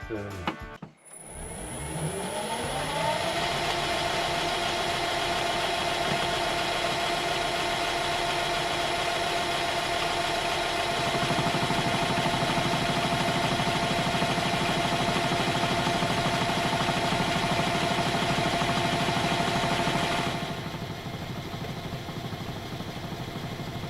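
A metalworking machine's motor spins up with a rising whine over the first few seconds, then runs steadily. About eleven seconds in, a lower rumble joins as a countersink bit cuts a chamfer along the edges of a steel part. Near the end the higher whine drops away.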